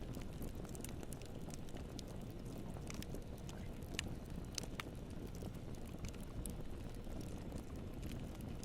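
Wood campfire burning: a steady low rumble of flame with scattered sharp crackles and pops, the loudest pops about four seconds in.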